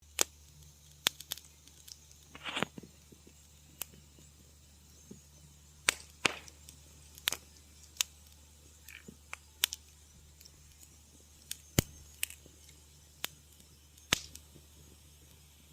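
Wood fire crackling in a fireplace: irregular sharp pops and snaps, about one a second, with a few short hissing flares among them, over a faint low hum.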